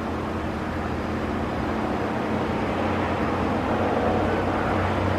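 An engine running steadily at a constant speed, growing slightly louder toward the end.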